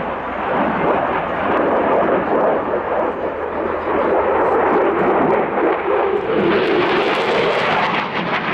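Turkish Air Force F-16 fighter jet flying a display. Its engine noise is a loud, steady jet rush that turns brighter and harsher about six and a half seconds in as the jet comes closer.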